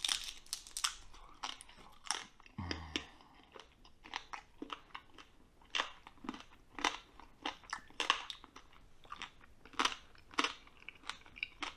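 Close-up chewing of a roasted lamb ear, with irregular sharp crunches as the crisp skin and cartilage are bitten through.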